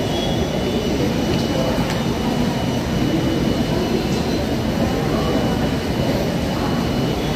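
Steady rumbling roar of a passenger train hauled by an electric locomotive rolling through a railway junction.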